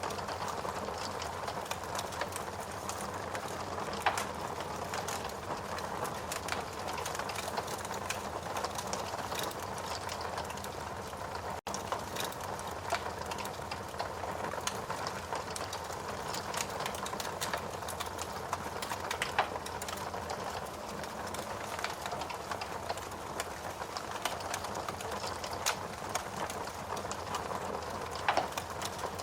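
Wood logs burning in a fireplace, crackling steadily with a dense run of small irregular crackles and a few sharper pops over a soft hiss of flame. The sound cuts out for a moment just under halfway.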